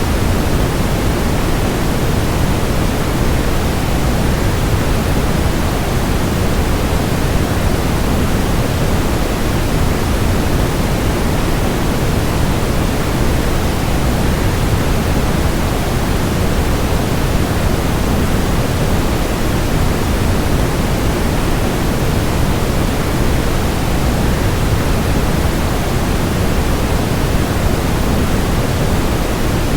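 Steady, unchanging rushing noise, fuller in the low end: a waterfall blended with white noise.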